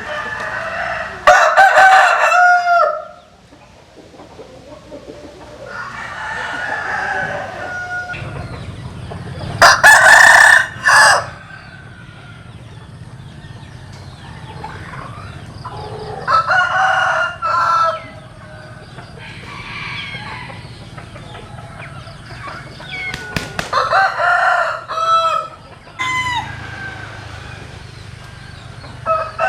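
Roosters crowing again and again, with four loud crows about every seven seconds and fainter crows between, and chickens clucking.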